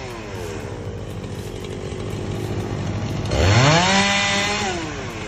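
Chainsaw's two-stroke engine dropping from full throttle to idle, then revving up sharply about three seconds in, holding briefly, and falling back toward idle near the end.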